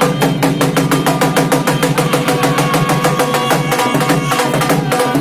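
Live Rajasthani folk music for a Kalbelia dance: a fast, steady hand-drum beat with held melodic tones over it.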